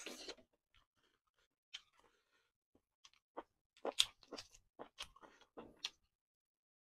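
Close-miked chewing and mouth sounds of a person eating fried chicken: a bite right at the start, then after a pause a quick run of sharp clicks and smacks as he chews.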